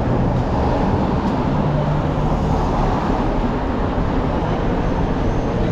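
Steady rumble of city traffic, a dense low noise with no single event standing out.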